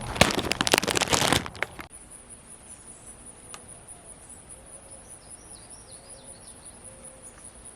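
A loud rustling noise for about the first second and a half. After that, steady high-pitched insect trilling continues outdoors, with a short run of bird chirps about four seconds in.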